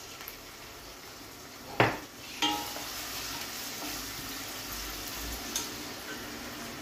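Onion and zucchini pulp frying in olive oil in a steel pot, sizzling steadily, while a wooden spoon stirs and knocks against the pot: a sharp knock a little under two seconds in and a ringing clink about half a second later.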